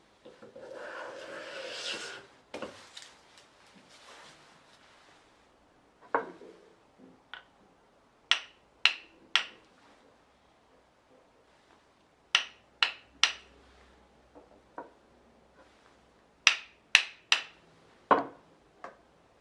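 Sharp hammer taps on a Japanese plane (kanna), mostly in quick groups of three, as is done to set the blade's projection. Near the start comes a short scraping stroke of wood on wood.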